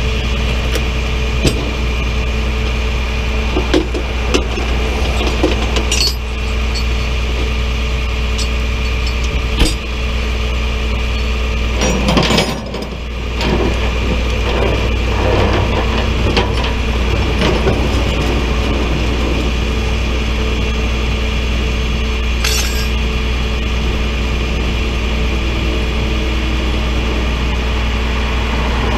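Tow truck engine running steadily, with scattered sharp metallic clinks and knocks, the loudest about ten seconds in and a cluster a little after twelve seconds.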